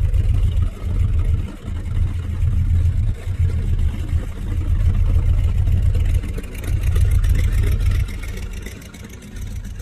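A car engine running with a deep, uneven rumble that rises and falls, dropping away about eight seconds in.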